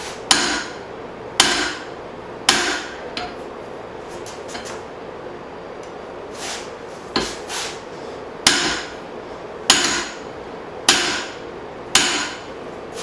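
Hand hammer striking a hot steel hatchet head forged from leaf spring, seating it to take a slight wink out of the back. Three ringing blows about a second apart, a pause of a few seconds with only light taps, then five more evenly paced blows.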